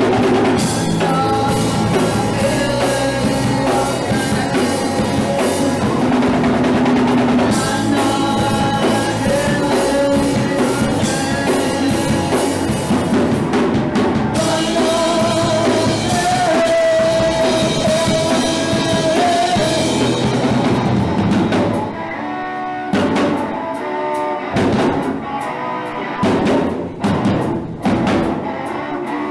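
Live punk rock band playing an instrumental break with drums, bass and electric guitar. The full band plays continuously for about twenty seconds, then drops into stop-start hits with short gaps near the end.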